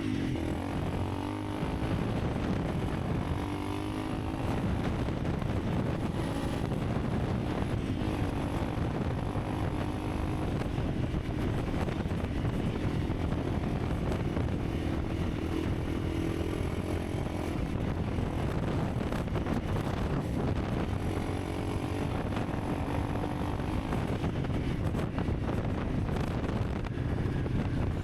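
Honda CRF300 Rally's single-cylinder four-stroke engine running under way, its pitch rising and falling with the throttle, over wind noise on the microphone.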